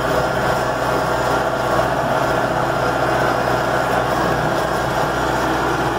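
A vehicle's engine running steadily while driving slowly, heard from inside the cab.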